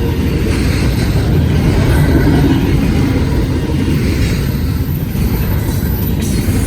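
Freight train rolling past at speed: a loud, steady noise of wheels on rails with no pauses.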